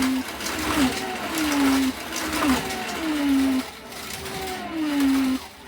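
Small electric motors of 1:32 scale slot cars whining as they run round the track, the pitch sliding and breaking off in a cycle that repeats about every second and three-quarters.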